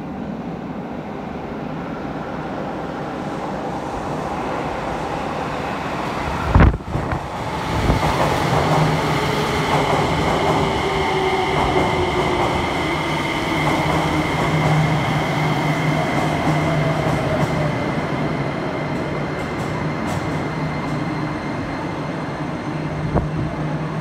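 JR Kyushu 303 series electric train pulling into an underground station and braking to a stop: its rumble builds as it approaches, with a sudden loud thump about seven seconds in. Then a motor whine falls in pitch as it slows.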